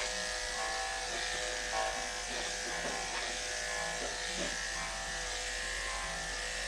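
Andis electric pet clippers running with a steady buzz while shaving a cat's matted fur.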